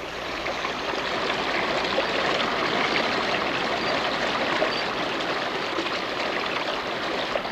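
A forest stream running steadily, with a continuous rush of water that fades in over about the first second.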